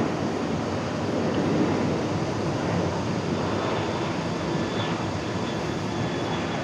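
Jet airliner engines heard from the ground: a steady rushing noise with no clear pitch.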